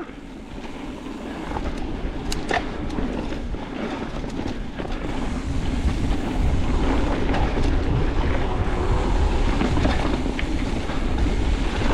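Mountain bike rolling along a dirt singletrack trail: tyre and wind noise on the helmet or bike camera, with a few sharp clicks and rattles from the bike over roots and rocks in the first few seconds.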